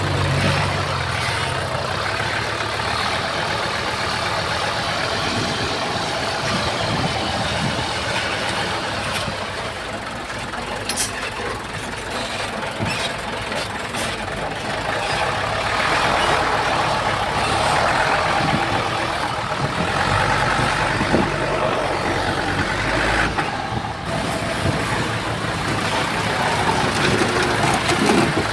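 Diesel engines of heavy earthmoving machinery, a bulldozer and dump trucks, running steadily, with a few short sharp clanks.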